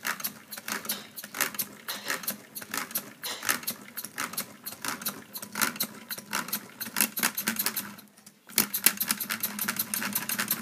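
Pneumatic Lego single-cylinder engine running on compressed air, clicking rhythmically with each stroke. The clicking stops for about half a second around eight seconds in, then resumes at a faster beat.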